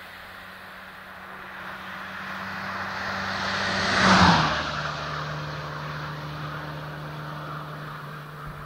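VW Golf IV with a stainless-steel duplex exhaust driving past. Its engine and exhaust note grows louder, peaks about four seconds in, then drops in pitch and fades as it goes away.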